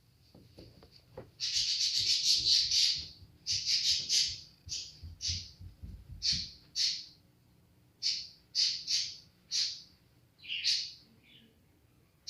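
A bird calling loudly and repeatedly in harsh chirps: a quick run of calls starting a little over a second in, then single calls about every half second. Faint low knocks and rumbling sit under the first half.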